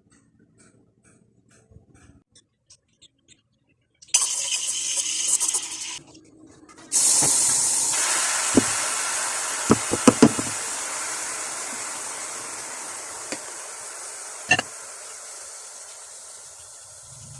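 Espresso machine steam wand hissing: a short burst about four seconds in, then, after a pause of about a second, a long hiss that slowly fades. A few sharp knocks sound during the long hiss, and faint regular ticking comes before the first burst.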